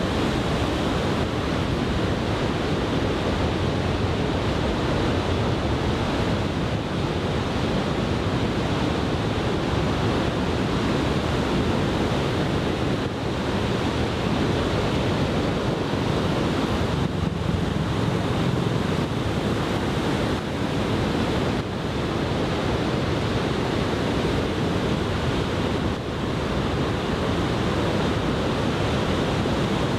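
Heavy typhoon surf breaking on the beach, a steady dense wash of crashing waves, with wind buffeting the microphone.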